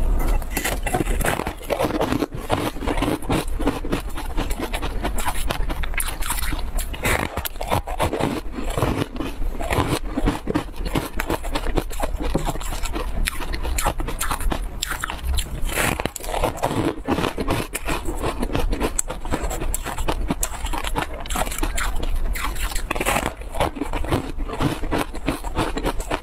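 Dense crunching and crackling of a crisp crumb-coated snack being bitten and chewed, with many small crackles running on without a break.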